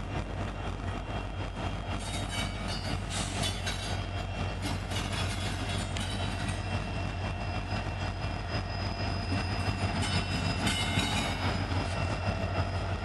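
Freight train of tank cars rolling past: a steady rumble of steel wheels on rail, with clusters of clicks as the wheels cross rail joints.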